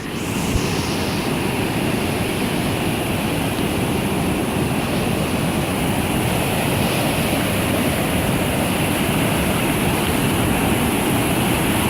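Whitewater rapids of the Stanislaus River rushing steadily, the river running high with snowmelt.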